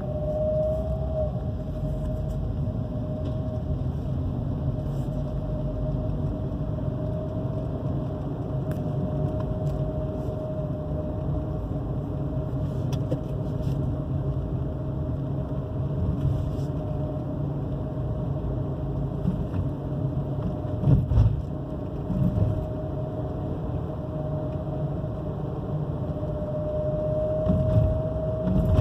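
Chevrolet Onix running with a steady drone and a held whining tone, like a worn water-pump bearing; a new timing belt has not cured it. A few low thumps come in around two-thirds of the way through and near the end.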